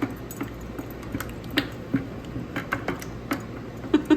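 Wooden stir stick knocking and clicking against the sides of a plastic paint bucket while paint is stirred, in irregular taps about three a second.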